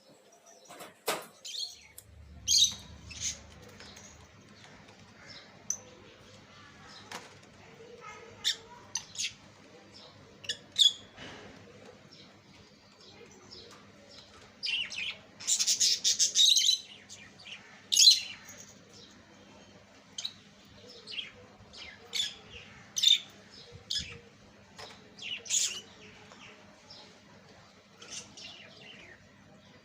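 Lovebirds chirping: short, sharp, high calls at irregular intervals, with a louder run of rapid calls about halfway through, over a faint steady low hum.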